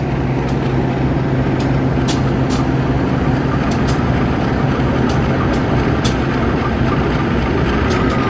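Diesel-hauled passenger train pulling out of a station: a steady low diesel locomotive hum with the rumble of the coaches, and irregular sharp clicks from the wheels.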